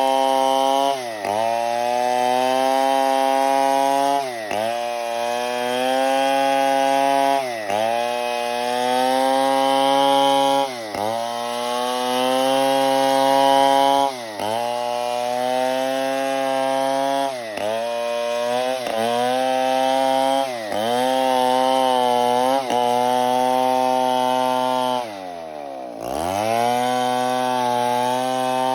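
A large two-stroke chainsaw, a STIHL 070, cutting wood at high revs. Its pitch dips briefly every few seconds, and near the end it drops almost to idle, then revs back up.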